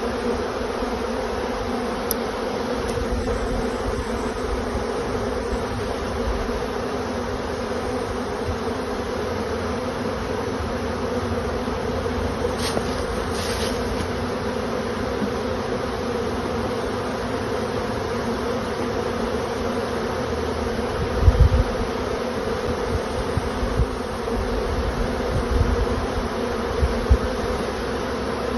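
Steady, dense buzzing of a large honey bee swarm, a continuous hum with no break. A few brief low thumps come about three-quarters of the way through.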